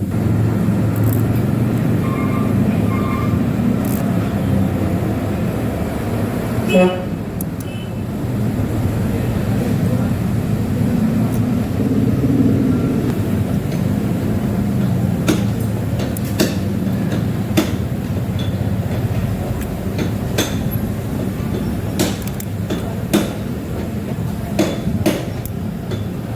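Scooter parts being refitted by hand: scattered sharp clicks and taps, most of them from about fifteen seconds in, over a steady low mechanical rumble.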